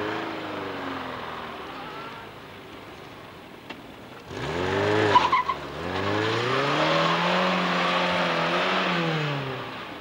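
A small saloon car's engine revving hard through a cone slalom, its pitch rising and falling as the driver accelerates, lifts and changes gear, held high through the middle and dropping near the end. A brief tyre squeal about five seconds in.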